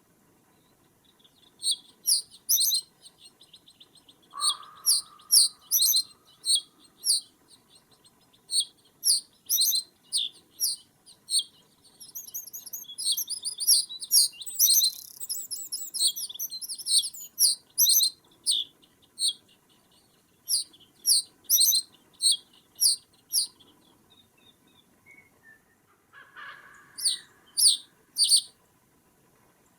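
Small songbirds chirping in short, sharp, repeated notes, with a fast twittering run in the middle. A lower, separate call comes twice, about four seconds in and near the end.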